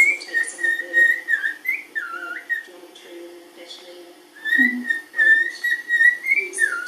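Cockatiel whistling its song: steady held notes broken by quick dips in pitch, in two phrases with a pause of about two seconds between them.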